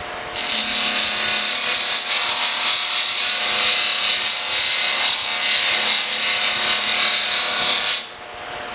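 Abrasive metalworking tool on a steel broadhead, a steady rasping hiss that starts just after the beginning and cuts off sharply near the end.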